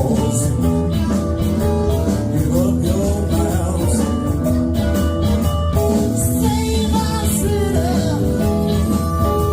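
A live band playing a song with a steady beat and melodic lines over a heavy low end.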